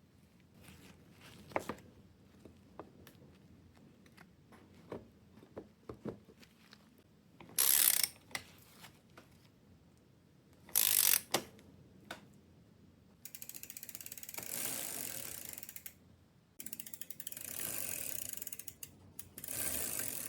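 Fast ratchet clicking: two short bursts, then three runs of two to three seconds each in the second half, after a spell of scattered small metallic clicks and knocks.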